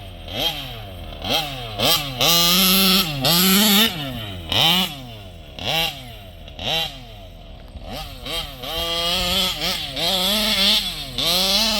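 SCZ 70cc two-stroke petrol engine of a large-scale RC vehicle revving in repeated throttle blips, the pitch rising sharply and falling back to idle each time, with a few longer stretches held at high revs.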